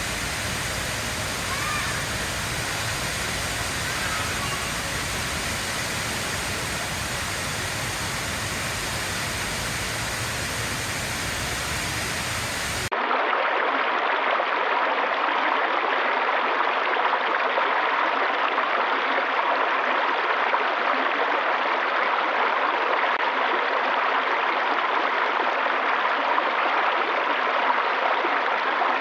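Running water rushing steadily, like a stream or small waterfall. About thirteen seconds in it cuts abruptly to a louder, thinner rush with the deep rumble gone.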